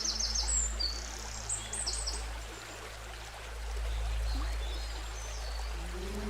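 Steady rush of river water, with birds calling in quick runs of high, repeated chirps, most near the start and again about two seconds in.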